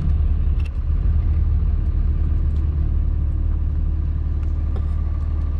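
Truck engine running with a steady low rumble and hum.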